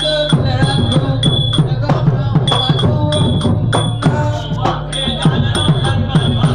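Southern Thai Nora dance music: drums struck in a quick, busy rhythm with short ringing metal strikes repeating about three times a second, over a pitched melody line.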